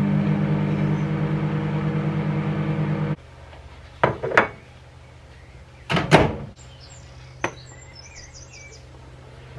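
A steady electric motor hum runs and cuts off suddenly about three seconds in, followed by two short clattering knocks a couple of seconds apart. Faint high chirps repeat in the background.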